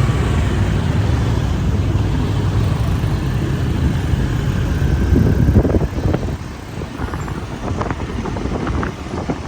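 City road traffic heard from a moving motorbike: steady engine and traffic noise that eases off about six seconds in.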